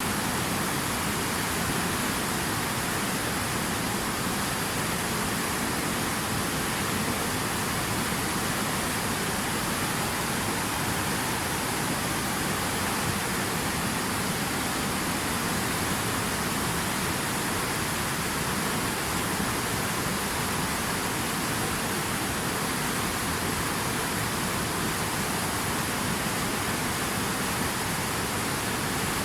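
Steady rushing water: an even, unbroken hiss with no separate splashes or drops standing out.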